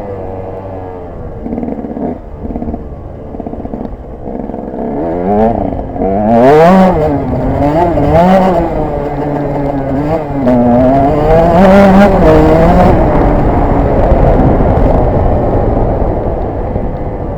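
KTM 125 EXC's single-cylinder two-stroke engine revving up and down repeatedly as the bike is ridden, loudest in the middle, running steadier near the end.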